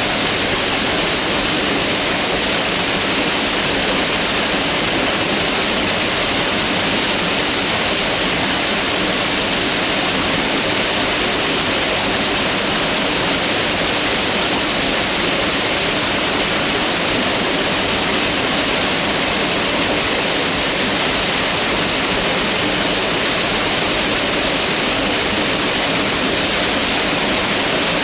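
Mountain river rushing steadily over rocks, a constant loud hiss of water with no change.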